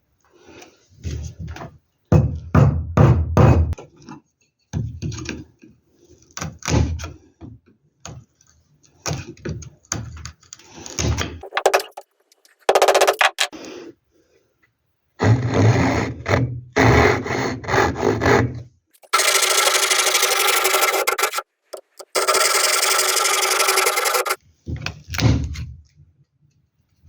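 Woodworking sounds in a string of short cuts: wood being rubbed, scraped and rasped by hand, with a few knocks, then two stretches of a steady, even-running tool noise about twenty seconds in.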